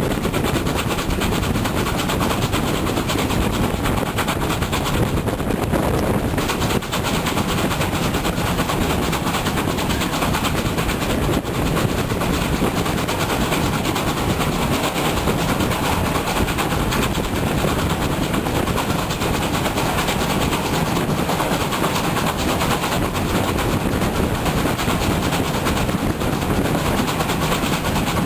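Heavy wind buffeting the microphone, over a GWR 57xx-class pannier tank steam locomotive and its train running on the line.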